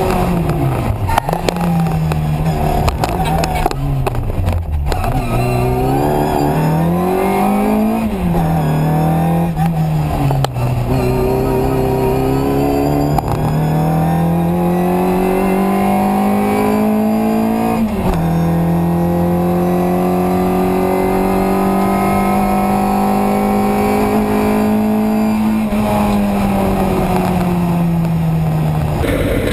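Classic Mini race car's 1380 cc A-series four-cylinder engine at full throttle, heard from inside the cabin: the revs climb and drop sharply several times through gear changes and bends, then are held high and fairly steady for much of the run, with one sudden dip partway through.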